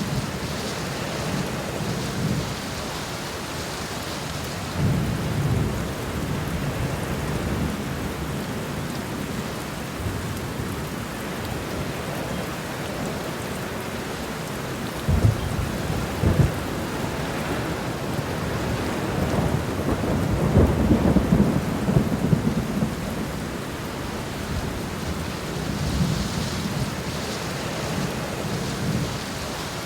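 Steady rain falling, with low rumbles of thunder rolling in several times; the longest and loudest rumble comes about two-thirds of the way through.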